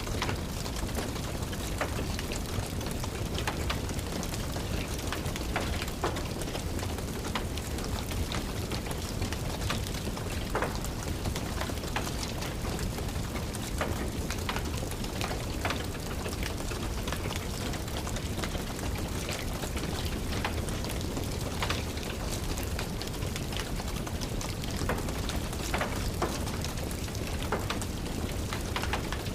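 Steady rain with a wood fire crackling, its sharp pops scattered irregularly over the rain's even hiss.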